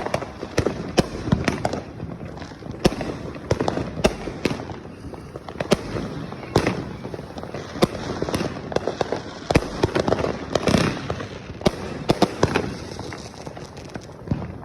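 Fireworks going off continuously: a dense, irregular series of sharp bangs and crackles, several a second, some louder than the rest.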